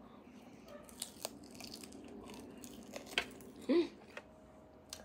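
Close-miked eating of roasted beef bone marrow: wet chewing, with scattered mouth clicks and smacks. A short hummed sound, rising in pitch, comes about three and a half seconds in.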